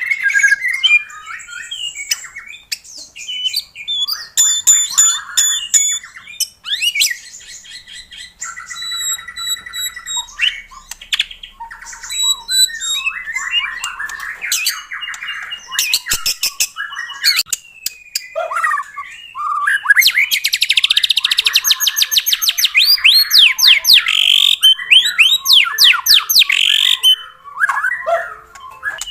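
White-rumped shama singing vigorously: a long, varied song of clear whistles, rapid trills and harsh, buzzy chattering notes, densest and loudest in the second half.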